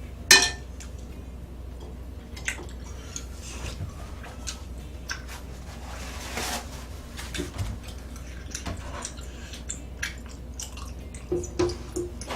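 A person eating close to the microphone: wet chewing and mouth smacking with scattered short clicks. A sharp loud click comes just after the start, and a quick run of smacks near the end.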